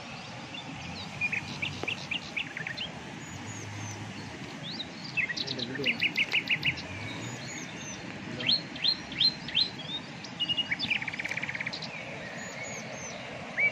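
Wild birds calling: repeated quick downward-sweeping chirps and several short, rapid trills, the busiest stretches about five to seven seconds in and again around nine to eleven seconds, over a steady faint background hiss.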